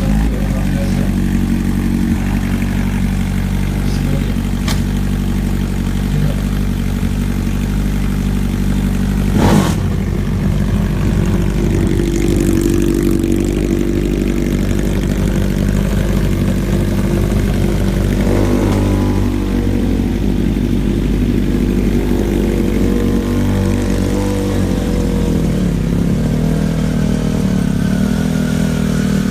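Superbike engines running steadily at idle, with the pitch swinging up and down in revs later on. A single sharp crack stands out about nine seconds in.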